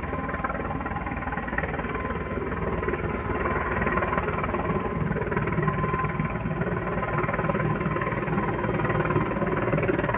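Mi-26 heavy helicopter's rotor and turbine engines running, a steady dense noise that grows slightly louder.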